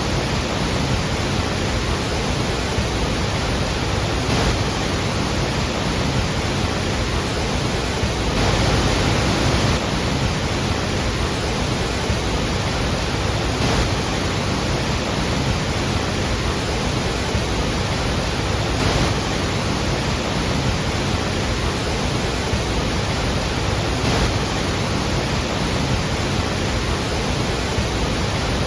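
Steady, loud rush of a large waterfall, a dense even roar of falling water with no pauses.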